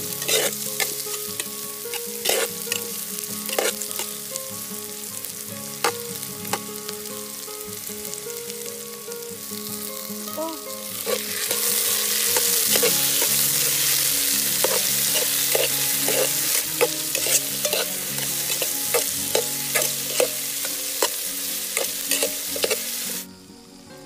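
Red onion and garlic frying in oil in a metal pot, with a spatula stirring, scraping and tapping against the pot. About halfway through, with sliced tomatoes now in the pot, the sizzle gets clearly louder. It cuts off abruptly near the end.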